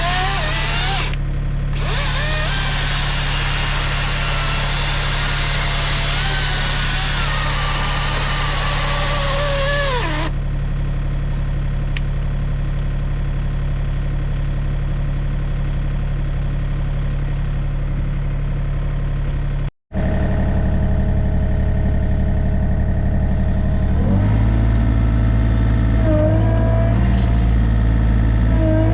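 A mini excavator's engine runs steadily underneath. For the first ten seconds an electric chainsaw whines over it, its pitch wavering as it cuts, with a brief pause about a second in; then the saw stops. After an abrupt cut about twenty seconds in, the excavator engine runs on and its note steps up about twenty-four seconds in.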